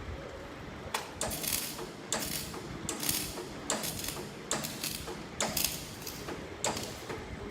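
Short, harsh scraping strokes on steel, repeated about once a second, as a metal test piece is worked by hand.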